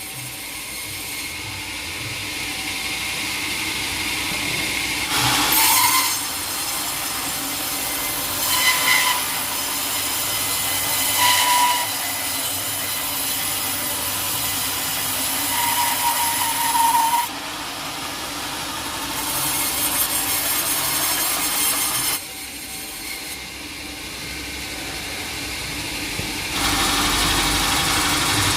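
Sawmill saw cutting through a teak log, the cutting noise swelling and easing in stretches of several seconds, with a few short squeals along the way.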